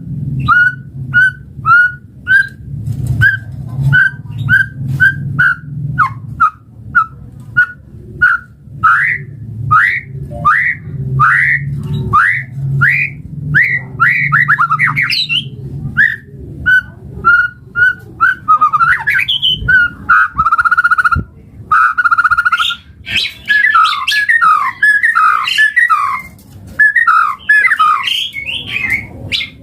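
White-rumped shama (murai batu) singing. It begins with a series of short whistled notes repeated roughly twice a second, which become longer rising, slurred whistles. In the last third it breaks into a fast, varied run of whistles and trills. A low hum sits under the first half.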